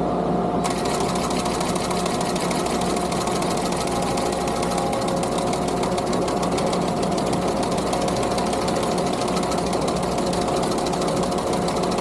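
Skid steer engine running steadily under the rapid, dense clatter of a sickle bar mower's reciprocating cutter knife, which starts up just under a second in.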